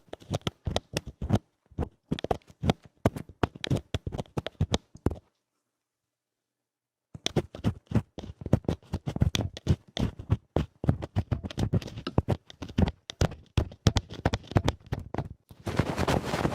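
Rough ear-scratching ASMR on a binaural ear microphone: rapid, crackling scrapes and rubs right at the mic. They stop for about two seconds partway through, then resume and turn into a denser, continuous rubbing near the end.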